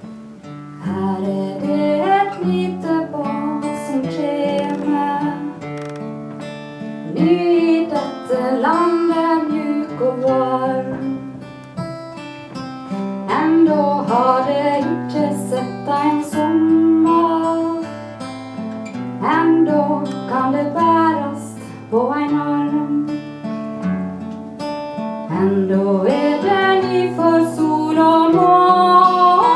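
Acoustic guitar strummed in slow chords, accompanying a woman singing a gentle melody in phrases of a few seconds.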